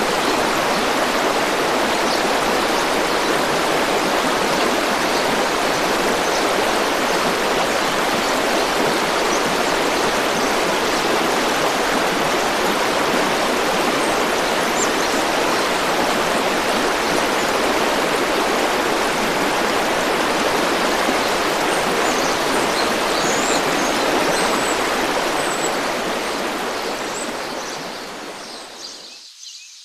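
Flowing river water rushing steadily, fading out near the end, when a few faint high bird chirps come through.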